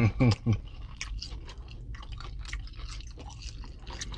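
Close-miked chewing of a fast-food burger and fries: wet mouth smacks and soft irregular clicks. A brief low voice is heard at the very start.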